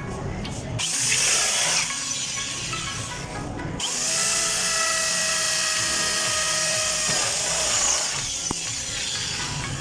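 Electric power drill working wood: a short run about a second in, then a longer steady whirring run with a motor whine for several seconds.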